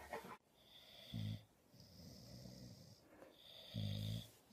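Faint snoring: two low rasping snores about two and a half seconds apart, with a thin high whistle on the breaths.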